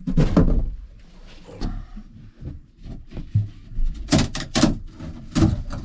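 Several knocks and thuds of wooden boards and plywood panels being lifted and moved about inside a small sailboat's cabin, with some scraping between them.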